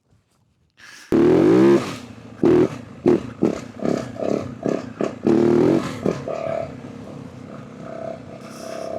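Yamaha WR450F dirt bike's single-cylinder four-stroke engine coming in suddenly about a second in with a rising rev, then a rapid series of sharp throttle blips, settling into a steadier, quieter run near the end.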